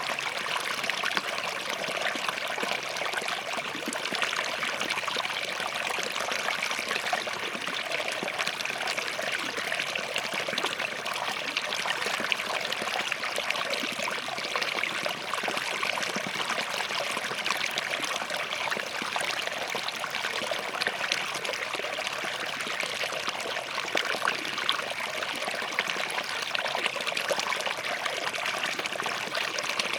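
A small forest stream running over and between rocks, a steady splashing and trickling with many quick little water flickers.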